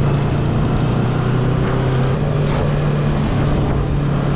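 Yamaha MT-03 motorcycle engine running steadily under way, its note rising slightly about two seconds in and settling back a second later, with wind rushing over the microphone.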